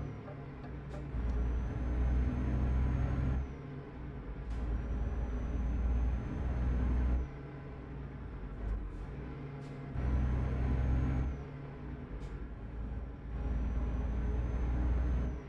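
Truck engine heard from inside the cab, pulling hard in four spells of about two to three seconds with short quieter breaks between. A faint whine rises through each spell and drops off as it ends, with brief clicks in the breaks.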